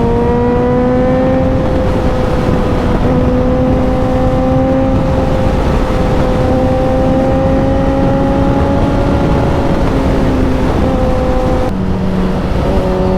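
Suzuki motorcycle engine pulling steadily under way, its pitch climbing slowly, then dropping sharply about twelve seconds in, with wind noise underneath.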